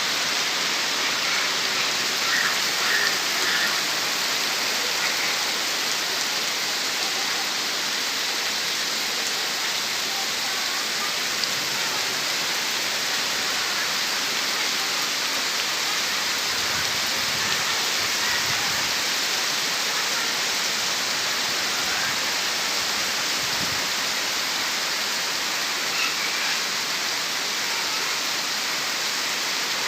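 Heavy rain falling steadily, a dense even hiss. A few brief low rumbles of wind buffeting the microphone come in the second half.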